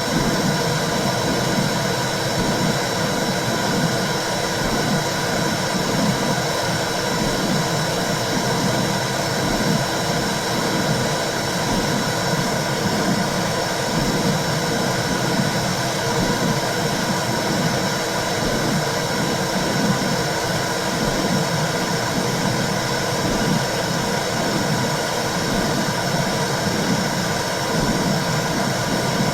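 Womb sound for soothing a baby: a steady whooshing hiss with a low pulse repeating roughly once a second, the rhythmic blood-flow and heartbeat sound heard inside the uterus.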